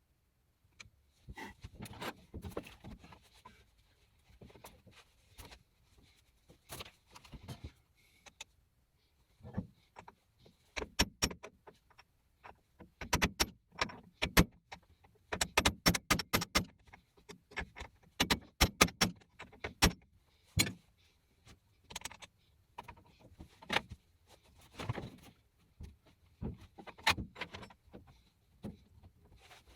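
Scattered sharp metallic clicks, clinks and knocks of metal parts or tools being handled, with quick runs of taps in the middle. No motor or machine is running.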